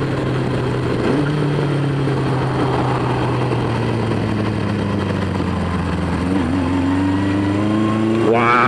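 Honda CB500 Four motorcycle's inline-four engine running under way. Its note steps up about a second in, falls slowly as the bike slows, then climbs again near the end.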